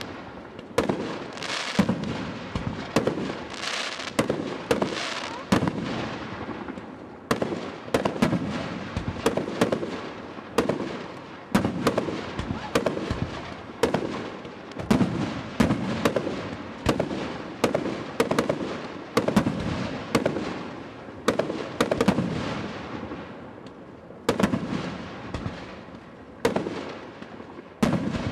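Fireworks display: a continuous run of sharp bangs from bursting shells, about one to two a second, each trailing off in a rumbling echo.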